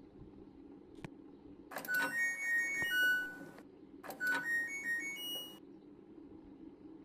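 Candy washing machine's control panel playing a short electronic beeping tune twice, over a steady low hum.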